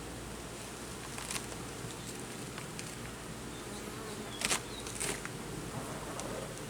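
A colony of honeybees buzzing steadily around an open hive. A few short clicks of hive equipment being handled cut through, the loudest about four and a half seconds in.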